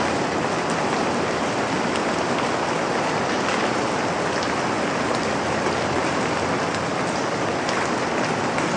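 Steady rain falling on a surface: an even hiss of rain with faint scattered drop ticks, no change in level.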